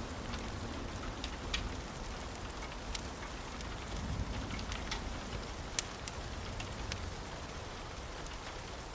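Steady rain with scattered sharp clicks, one louder about six seconds in.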